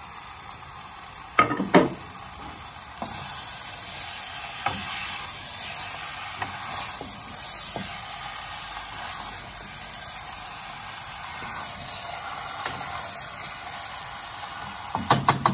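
Chicken curry with freshly added chopped tomatoes sizzling in a stainless steel pot on a gas stove while a spoon stirs it. Sharp knocks on the pot come twice about a second and a half in and in a quick cluster near the end, with lighter ticks between.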